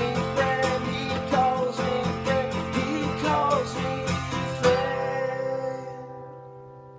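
Strummed acoustic guitar music in a steady rhythm, ending on a final chord about four and a half seconds in that rings on and fades away.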